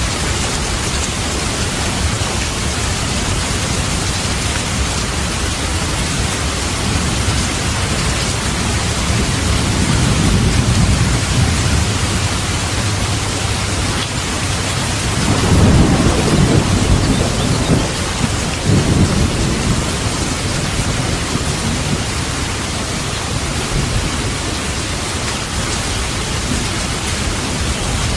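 Steady rain in a thunderstorm, with rolling thunder rumbling low under it: a soft roll a third of the way in, then a louder, longer rumble just past the middle that trails off in a second roll.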